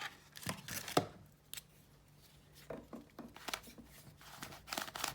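Pear-shaped plastic puzzle cube having its layers turned by hand: a series of irregular clicks and taps, with a quick cluster about three seconds in.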